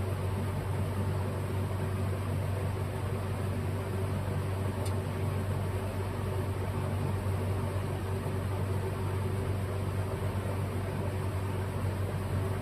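Steady low hum with an even hiss from a running fan-type machine, with a faint tick about five seconds in.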